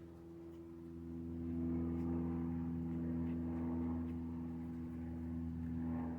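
A steady engine-like drone with a low hum, growing louder about a second in and easing off near the end.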